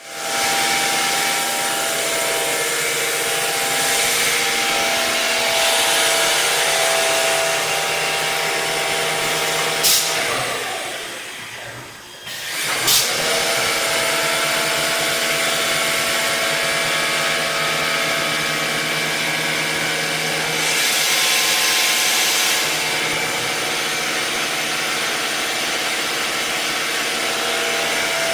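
Double-head CNC glass drilling machine running, its diamond drill spindles and motors giving a steady whine with several tones and a hiss. About ten seconds in there is a click and the machine winds down briefly, then another click and it runs up again.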